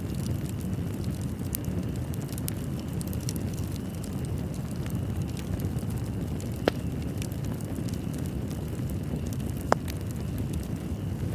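Fireplace fire burning with a steady low rumble and a scatter of soft crackles, and two sharper pops about three seconds apart in the second half.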